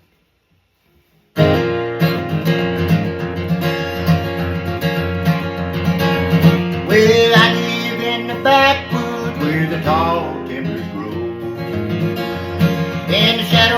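Instrumental intro of a song on acoustic guitar, starting suddenly about a second in, with a higher melody line whose notes bend and slide between pitches.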